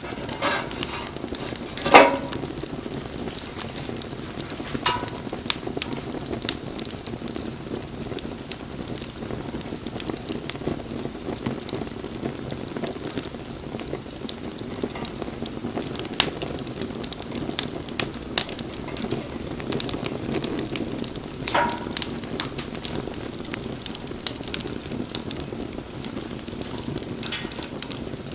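Wood fire burning: a steady low rush of flame with frequent crackles and sharp pops. The loudest snaps come about two seconds in and about three-quarters of the way through.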